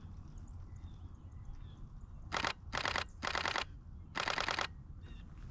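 A Nikon D500 DSLR shutter firing in continuous bursts: four quick volleys of rapid clicks, each lasting well under a second, coming about halfway through. A steady low rumble sits underneath.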